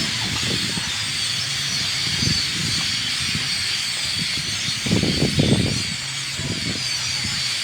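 A large flock of birds roosting in one tree, chirping and chattering all at once in a dense, steady din. A louder low rumble comes about five seconds in.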